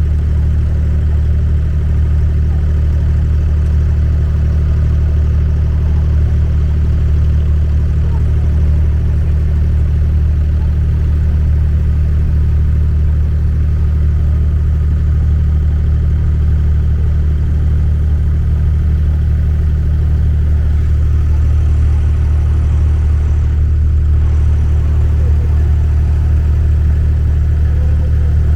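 Boat engine running steadily, a constant low drone heard on board.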